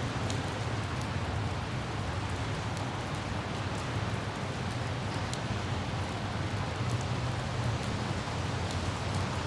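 Light rain, with scattered drops ticking, over a steady low rumble of traffic on wet city roads.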